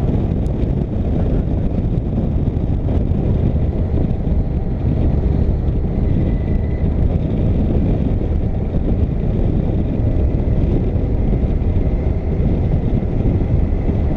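Motorcycle riding at highway speed: a steady engine drone mixed with heavy wind rush on the microphone.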